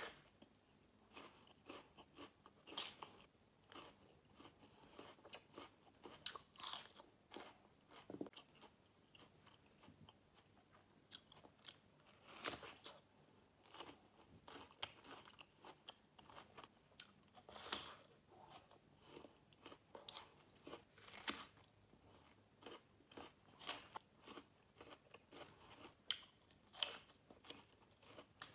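Close-miked biting and chewing of a crisp red rose apple (wax apple): irregular crunches, with a few louder bites standing out among quieter chews.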